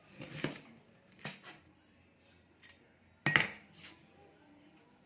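A few short clinks and knocks of cutlery and dishes, the loudest about three seconds in.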